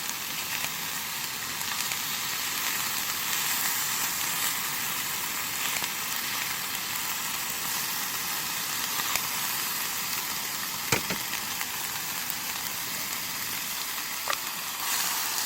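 Food sizzling as it fries in a pan: a steady hiss with a few sharp pops, the loudest about eleven seconds in.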